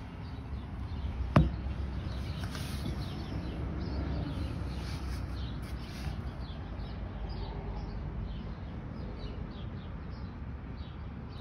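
Small birds chirping in short repeated calls, about one or two a second, over a steady low background noise, with one sharp knock about a second and a half in.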